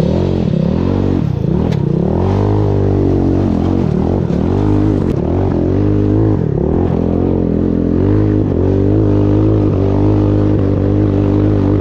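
Small motorcycle engine running on a trail ride, its note rising and falling again and again as the throttle is worked, over a steady low hum.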